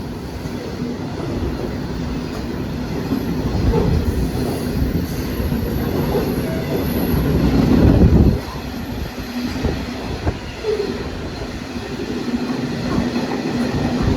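Freight train hauled by a Class 66 diesel locomotive passing close by, its wagons rolling over the rails with wheel rumble and clacking and a held squeal. The noise builds to its loudest about eight seconds in, then drops suddenly to a lower steady rumble.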